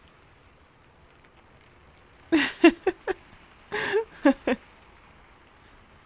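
Steady rain ambience with two short bursts of a woman's wordless vocal sounds, about two and a half and four seconds in.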